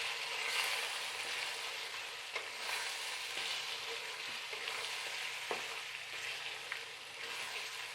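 Chicken frying in a kadai with ground masala paste, sizzling steadily, with a few short scrapes as it is stirred.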